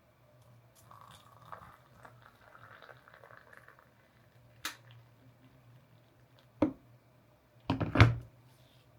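Coffee things being handled: a faint soft hiss of liquid for a few seconds, then a few sharp knocks and clinks, the loudest about eight seconds in.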